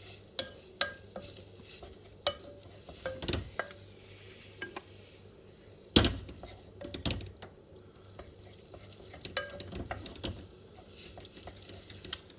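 Pasta being stirred in a pan of simmering sauce with a utensil, which clicks and scrapes against the pan at irregular moments over a faint sizzle. One louder knock about halfway through.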